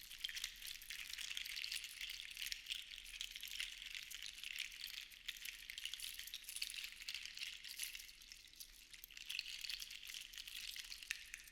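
Seashells shaken together in a shaker, a dense, continuous rattle of tiny clicks that swells and eases in slow waves, dipping a little about eight seconds in.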